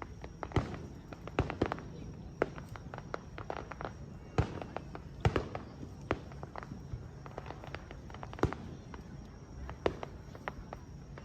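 Fireworks going off: a run of irregular sharp bangs and crackles, the loudest about half a second, four and a half, five and eight and a half seconds in.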